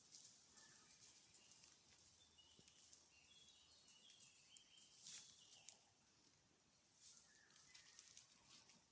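Faint forest birdsong: short, high chirps in a run around the middle and a few more near the end, over faint crackling ticks and rustles.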